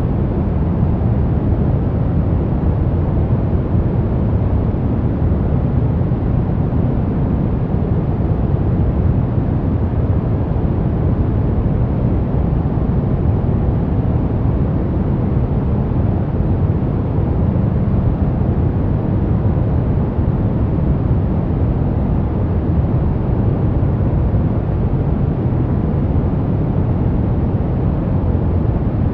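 Steady, unchanging sleep white noise, deep in tone with most of its weight in the low end and little hiss above.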